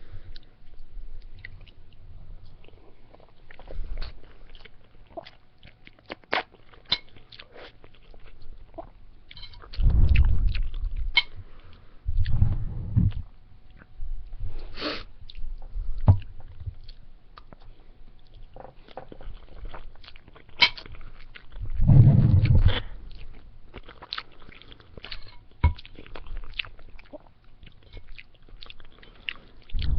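A person eating spaghetti and salad close to the microphone: chewing, with many short mouth clicks. Now and then there is a heavier, low-pitched swell, the loudest about twenty-two seconds in.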